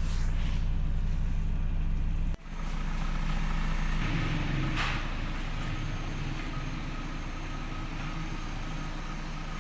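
Nissan 1.3-litre twin-cam 16-valve EFI engine (engine code CGA3) idling steadily. The sound breaks off abruptly about two seconds in, then the idle carries on.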